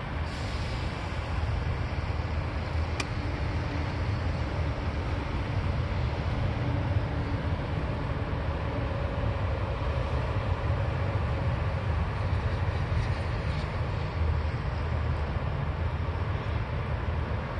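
Steady low rumble of a distant NJ Transit passenger train approaching along the line, with one sharp click about three seconds in.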